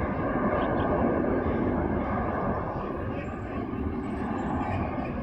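Jet airliner engines running: a steady rushing noise with a faint steady whine above it.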